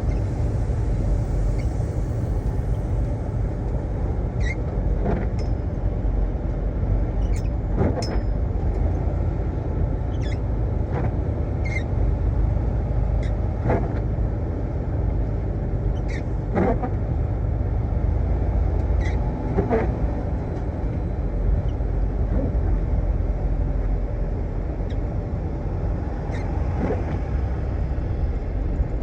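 Steady low rumble of a semi-truck heard from inside the cab, with short clicks and knocks every few seconds.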